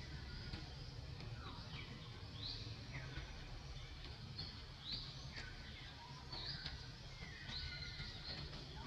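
Forest birds calling repeatedly, short sliding chirps about once a second, over a steady low rumble of outdoor background noise.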